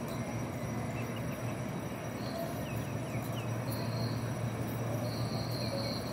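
Steady low hum of an electric train standing at a station platform, with a few faint short chirps. A thin high tone comes in briefly about two seconds in, again around four seconds, and from about five seconds on.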